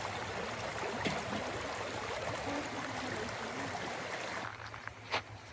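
Flowing river water, a steady rushing, with a single knock about a second in. About four and a half seconds in the water sound drops away to a quieter background, and a sharp click follows shortly after.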